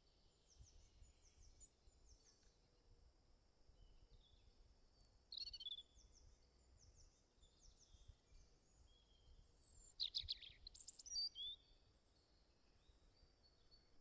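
Birds chirping and twittering faintly in short high notes, loudest about five seconds in and again around ten to eleven seconds, over a faint low background rumble.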